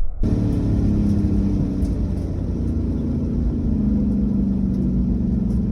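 Car engine running at a steady cruise, a low drone whose pitch drifts slightly; it starts abruptly just after the beginning.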